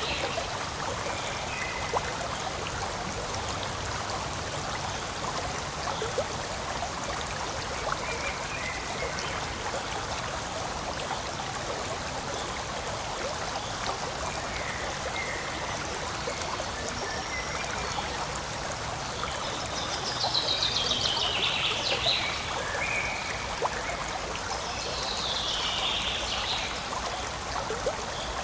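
Forest stream water flowing and trickling steadily, with a few brief higher-pitched sounds over it about two-thirds of the way through and again near the end.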